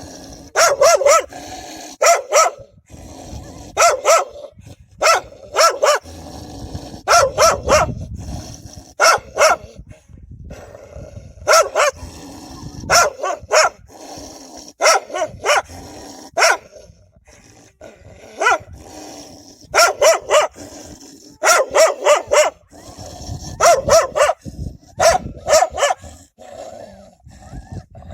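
Dogs barking aggressively in repeated volleys of two to four sharp barks every second or two, with low growling in between: protective warning barks of dogs guarding their puppies.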